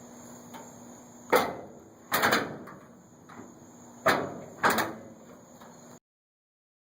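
The hood of a 1957 Chevy pickup being unlatched and raised: four sharp metal clunks with brief rattles.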